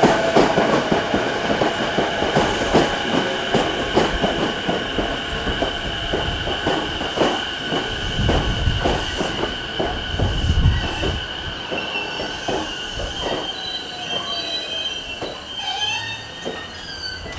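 Electric commuter train running past on the rails. The wheels squeal with a steady high pitch and click irregularly over rail joints, and the sound gradually fades as the train draws away.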